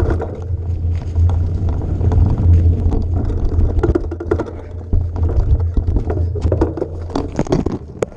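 A vehicle engine running with a steady low rumble, with many clicks and knocks over it that come thicker in the second half.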